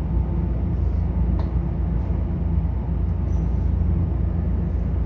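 Electric commuter train running with a steady low rumble and a faint hum.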